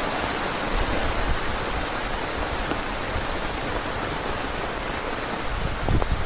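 Heavy rain falling in a steady downpour, with a few low gusty rumbles near the end.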